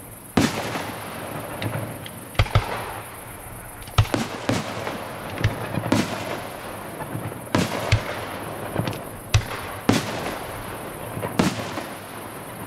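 A fireworks display: a run of about ten sharp bangs, some coming in quick pairs, each followed by a trailing rush of noise as the shells burst.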